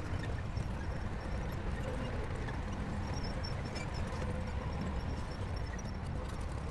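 Bulldozer's diesel engine running with a steady low rumble, with light clicking and clanking over it, as from the crawler tracks.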